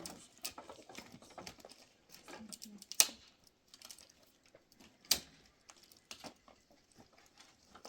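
Irregular small clicks and crackles, with two sharp knocks about three and five seconds in.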